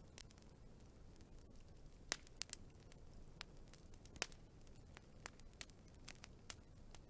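Wood fire crackling faintly: scattered sharp pops and snaps over a low steady rumble, the loudest about two and four seconds in.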